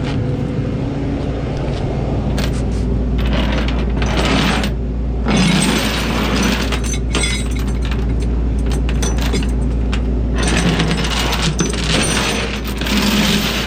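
Rollback tow truck's hydraulic winch pulling a car up the tilted bed, with the truck's diesel engine running steadily underneath. There are scattered metallic clicks and clanks, and a louder stretch of grinding mechanical noise in the middle and again near the end.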